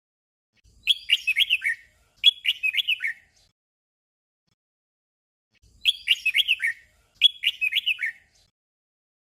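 Red-whiskered bulbul song: a short phrase of quick warbling notes sung twice in a row, then, after a pause of about two seconds, the same doubled phrase again.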